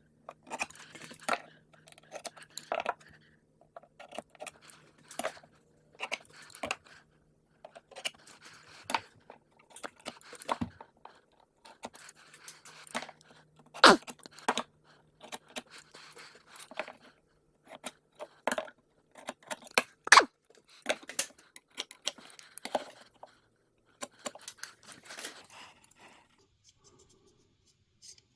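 Irregular knocks, clicks and scrapes of hands working with tools and materials, with two sharper knocks about halfway through and again some six seconds later.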